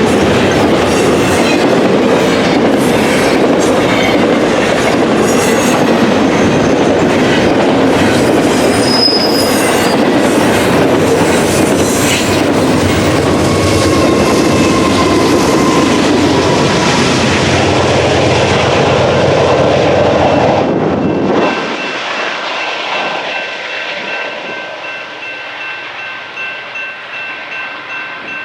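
A train rolling past close by, its wheels clacking over the rail joints. The loud passing ends abruptly about 21 seconds in, leaving a much fainter sound with steady high ringing tones and a pulsing level.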